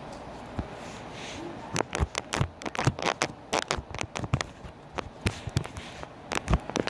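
Slime being squeezed and played with by hand. From about two seconds in it makes a quick, irregular run of sharp wet clicks and pops.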